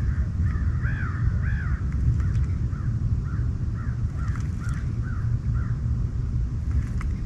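A bird calling a quick series of short, arching notes for about five seconds, over a steady low rumble.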